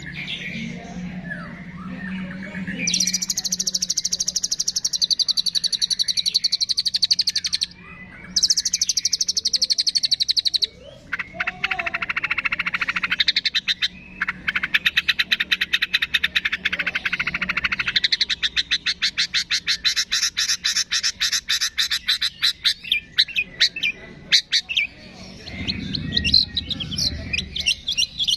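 Songbird chatter and trills from a masteran recording of training calls: long phrases of rapid, high, chattering repeated notes broken by short pauses, with a faint low hum beneath them for the first part.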